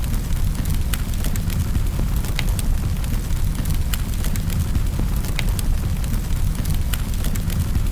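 Wood fire burning in a fireplace: a steady low rumble of the flames with sharp crackles and pops several times a second.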